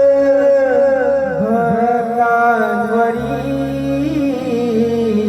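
A devotional song: a singing voice holds and ornaments a long note in a wavering melodic run. Underneath are steady low sustained accompaniment notes, which shift to a new chord about three seconds in.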